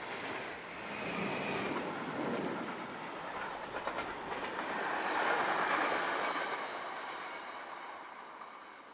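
Freight train of covered sliding-wall wagons rolling past, its wheels clattering over the rails. The tail of a double-deck passenger train passes at the start. The noise is loudest about five to six seconds in, then fades steadily as the freight train pulls away.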